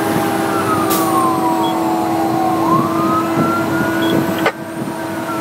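Fire engine siren wailing, heard from inside the truck's cab: the pitch slides slowly down, climbs back up about a second later and begins to fall again. Under it are a steady drone and the noise of the truck on the road.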